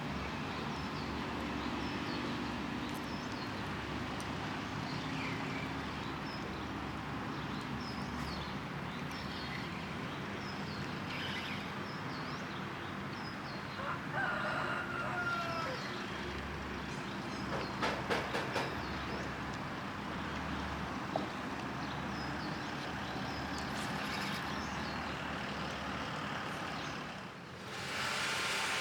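Steady outdoor city background noise, mainly road traffic, with a few faint short sounds on top: some brief gliding tones about halfway through and a cluster of clicks a few seconds later.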